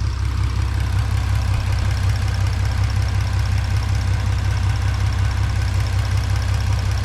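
Car engine idling steadily and smoothly on fresh spark plugs, with a light ticking over the idle that the owner assumes is lifter tick.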